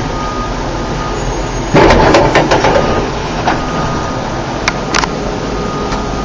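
Mitsubishi passenger lift's sliding doors moving with a loud rattling clatter about two seconds in, lasting about a second, over steady background hum; two sharp clicks follow a few seconds later.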